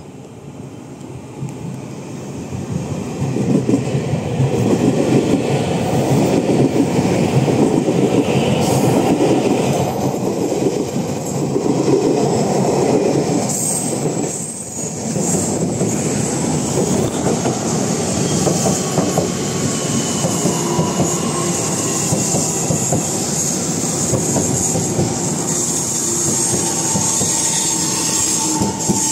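A Taiwan Railways train running past at close range. It swells over the first few seconds into a loud, steady rush, with wheels clattering over rail joints and thin wheel squeals in the later part.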